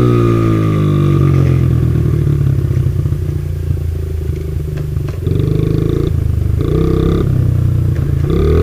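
Motorcycle engine running, its revs falling away at first, rising briefly twice later on and climbing again near the end.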